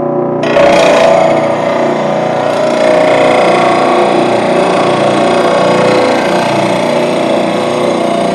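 Electric lawn mower blade sharpener running, with a steel mower blade ground against its grinding wheel. The motor hum is joined about half a second in by loud, rough grinding that goes on steadily.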